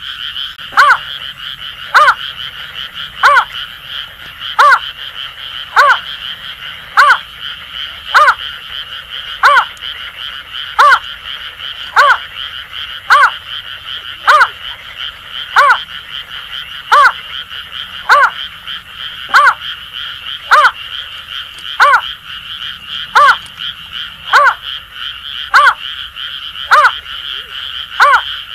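Greater painted-snipe giving its hooting call: one short, low note repeated steadily about every second and a quarter. Underneath it runs a continuous chorus of Asian grass frogs.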